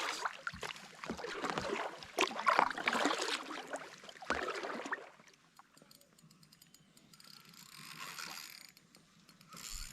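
Spinning fishing reel being cranked and its mechanism clicking and rattling as a fish is hooked and wound in: louder clattering handling noise for the first half, then fainter runs of quick fine clicks.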